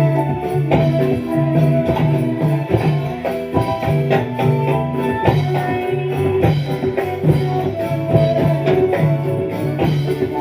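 Live dolalak dance accompaniment in an instrumental passage without vocals: a steady repeating drum and bass beat under a looping melody line.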